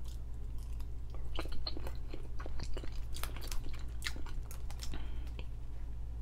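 Close-miked chewing and biting into a boiled egg and other soft food: irregular wet mouth clicks and smacks, several a second, over a steady low hum.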